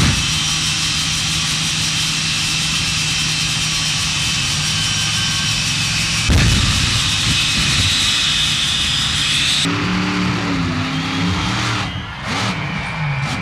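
Monster truck engine running loud with a high, steady whine. About ten seconds in it cuts off abruptly to an engine revving up and down.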